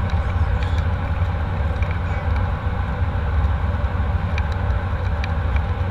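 Steady airliner cabin noise: a constant low engine rumble under an even rush of air, heard from inside the passenger cabin, with a few faint short ticks.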